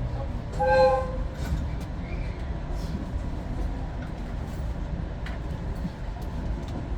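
Steady low rumble of a moving electric train heard from inside the car, with wind noise at the window and a few light rail clicks. About a second in, a short single train horn toot sounds.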